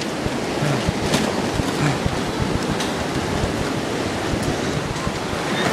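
Steady rush of tsunami floodwater, with wind buffeting the microphone in low, irregular thumps.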